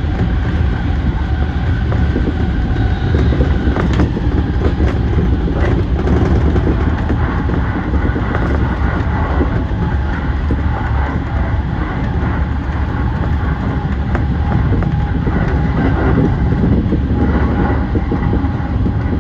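JR East E235-1000 series electric train running at speed, heard from on board: a steady rumble of wheels on rail with a few faint steady tones, broken by occasional sharp clicks from wheels passing over rail joints.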